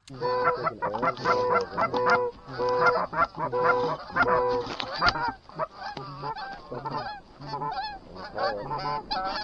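Canada geese honking in rapid, overlapping honks. The honks come about twice a second for the first few seconds, then turn more scattered.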